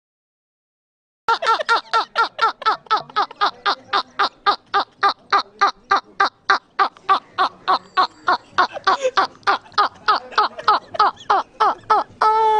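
A long, rapid run of laughter, about four 'ha' syllables a second, each one dropping in pitch. The run starts about a second in and ends on a longer held note near the end.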